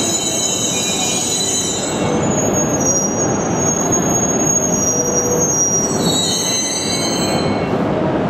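Tohoku Shinkansen train running slowly past the platform: a steady rumble with several high whining tones over it, which shift to new pitches about two seconds in and again about six seconds in.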